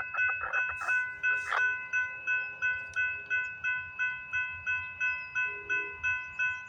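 Railroad level-crossing warning bell ringing in a steady rhythm of about three strokes a second, each ring hanging on into the next. It is the crossing signal activated for an approaching train.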